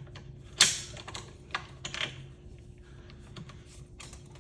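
Sharp clicks and knocks of ceiling fan parts being handled and turned during disassembly. The loudest comes about half a second in, followed by a few lighter taps.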